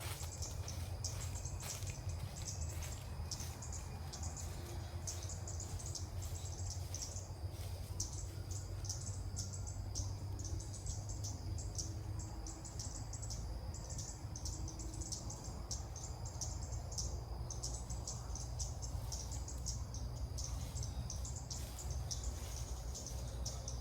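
Insects chirring in a rapid, pulsing, high-pitched chorus that keeps up without a break, over a low steady rumble.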